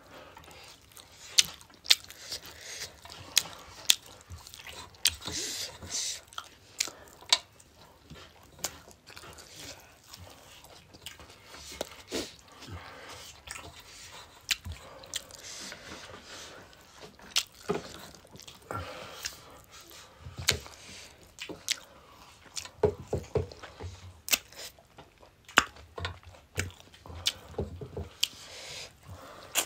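Mukbang eating sounds close to the microphone: chewing and lip-smacking with frequent sharp, irregular crunches and clicks, including crisp papad (lentil wafer) being bitten.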